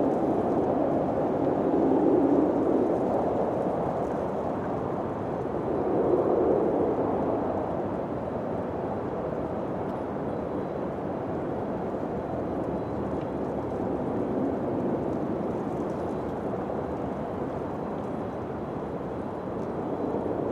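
Wind blowing in gusts: a rushing noise that swells twice in the first seven seconds, then settles into a steadier blow.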